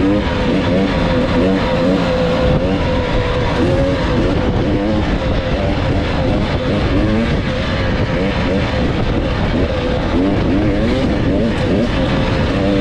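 Dirt bike engine running hard, its pitch rising and falling continually as the throttle is worked, over a steady rush of noise.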